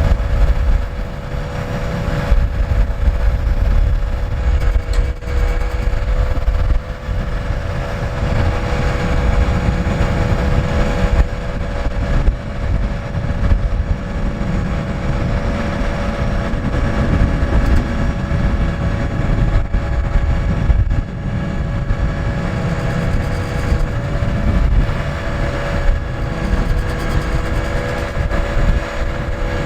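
Scania R580's V8 diesel engine running steadily: a low rumble with a steady whine over it.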